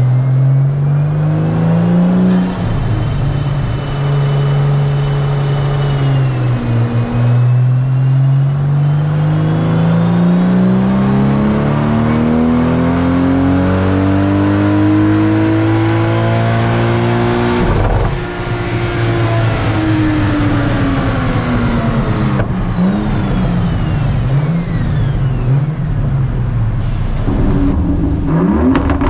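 2001 Toyota Supra's twin-turbo straight-six on a chassis dyno. It revs up briefly, then holds steady revs for several seconds, then pulls smoothly up through the rev range for about nine seconds. It comes off the throttle suddenly and the revs fall away, with a high whine that rises and falls with the engine.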